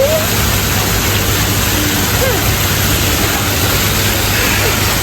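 Steady, loud rush of falling water, with a few faint short calls or voices over it.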